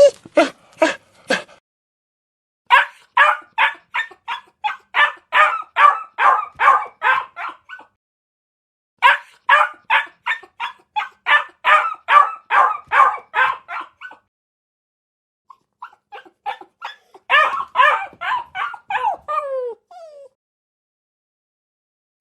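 A dog yipping and whining in rapid series of short, high calls, about three a second, in four bouts separated by short pauses; the last bout ends in a longer, falling whine.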